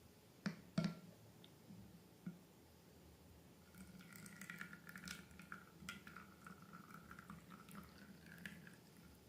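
Faint slime being worked by hand: two sharp clicks in the first second, then a few seconds of small wet squishing and crackling.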